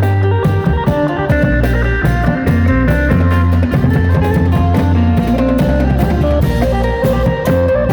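Lively Isan folk dance music: a phin, the plucked Isan lute, plays a quick melody over bass and a steady drum-kit beat.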